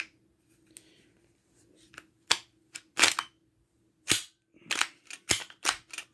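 Glock 34 CO2 blowback airsoft pistol firing about eight single shots at uneven intervals, each a sharp crack.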